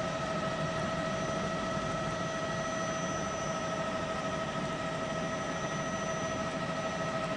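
Steady cabin noise of a helicopter: an even hiss with a constant turbine whine made of several steady tones, unchanging throughout.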